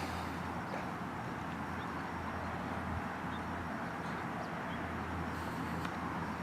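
Steady outdoor background noise, an even hum with no clear single source, with a few faint short chirps.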